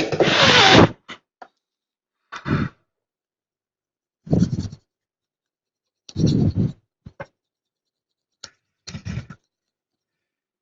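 Short scraping and rubbing strokes on a circuit board during phone board rework, about one every two seconds; the first stroke, about a second long, is the loudest.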